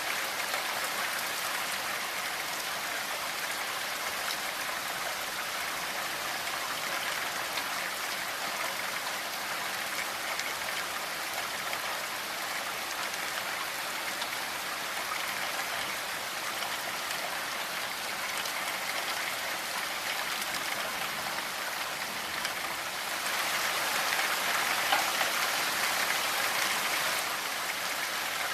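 Steady rain falling, a dense patter of drops, growing heavier for a few seconds near the end.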